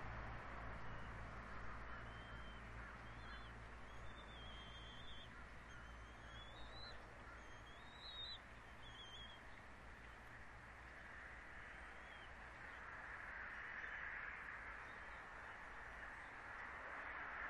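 A bird giving a series of thin, high, wavering calls for several seconds, fading out after about nine seconds, over a faint, steady outdoor hiss.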